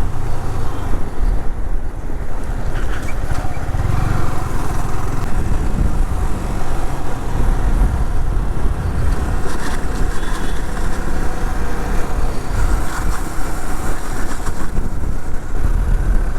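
Motorcycle being ridden on the road, a steady loud rumble of engine and rushing air.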